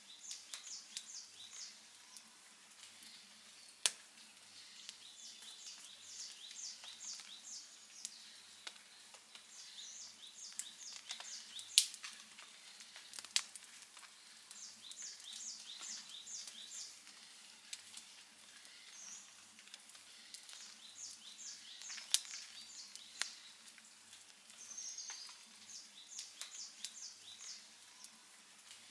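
Outdoor campfire crackling steadily, with sharp pops of burning wood now and then; the loudest pop comes about twelve seconds in. A high, rapid chirping call repeats every few seconds behind it.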